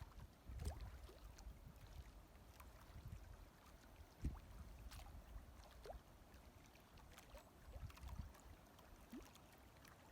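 Near silence outdoors: a faint low rumble of wind on the microphone, scattered light clicks and knocks, and one soft thump about four seconds in.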